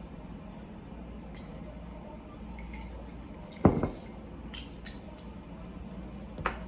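Small hard objects being handled: light clinks and taps of glass or dishes, with one louder knock about halfway through and another near the end, over a low steady hum.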